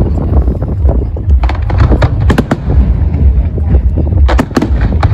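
Fireworks exploding in a display: a cluster of sharp bangs and crackles in the middle, then a few more near the end. Under them runs a steady low rumble of wind on the microphone.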